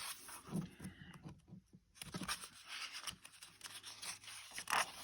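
Paper rustling and scraping as a picture book's page is handled and turned, with a louder rustle near the end.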